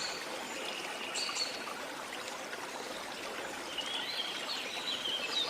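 Steady rush of a waterfall with birds chirping over it: a brief call about a second in, then a run of quick, sliding chirps near the end.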